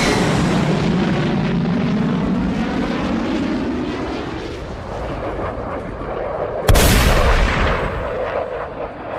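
Sound-effect fighter-jet roar passing over and fading away, then about two-thirds of the way in a single sudden loud blast, a cannon-fire or explosion effect, that dies away over a couple of seconds.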